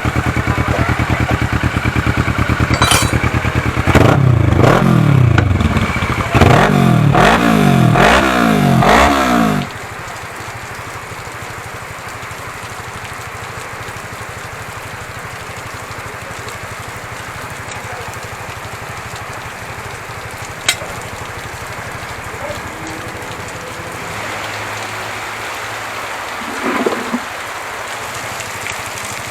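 Kawasaki ER-6 parallel-twin engine idling through an aftermarket full exhaust system with an Akrapovic silencer. It is blipped several times, rising and falling in pitch for about five seconds, and then switched off about ten seconds in. After that a steady hiss remains, with a single click a little after halfway.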